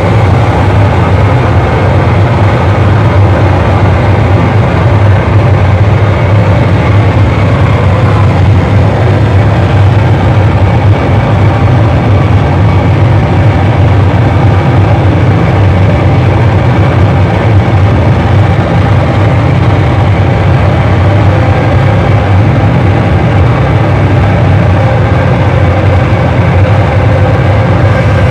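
Loud live distorted noise music: a dense, unbroken wall of noise over a heavy low rumble, with no beat or pause.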